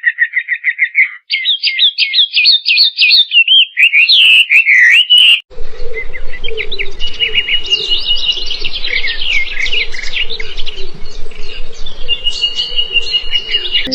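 Small birds singing: rapid chirps and trills, in pieces that change abruptly about a second in and again about five and a half seconds in.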